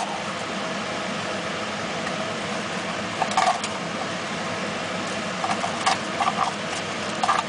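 Pot of chicken legs and wings in soy-sauce braising liquid heating on high toward a full boil, with a steady rushing noise and a few short utensil clatters about three seconds in, around six seconds in and near the end.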